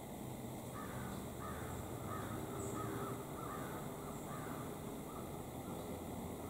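A bird calling a rapid run of short caw-like notes, about three a second, tailing off near the end.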